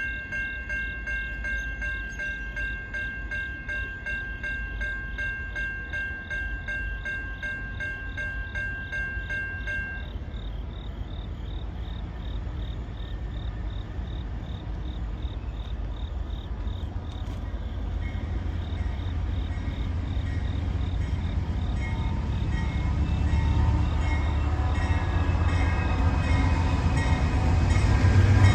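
A steady ringing bell pulses for about the first ten seconds, then stops. A Norfolk Southern freight train approaches, its low rumble growing steadily louder toward the end.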